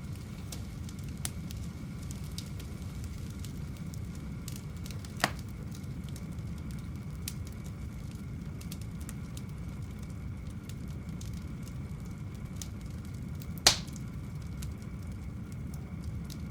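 Wood campfire crackling with many small scattered pops and two louder snaps, one about five seconds in and one near the end, over a steady low rush.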